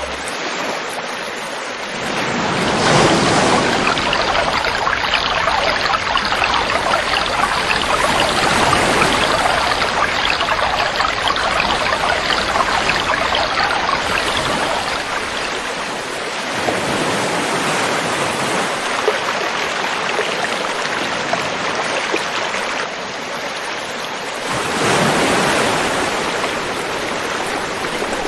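River water rushing steadily, swelling louder about three seconds in and again near the end.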